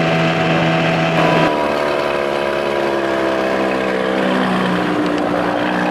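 Evinrude two-stroke outboard motor running under way. About a second and a half in its pitch drops and the engine slows steadily over the next few seconds. The motor is not pushing the boat as it did with the smaller intake.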